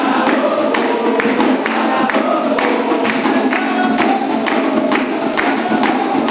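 Candomblé ritual music: percussion beating a steady, driving rhythm under voices singing.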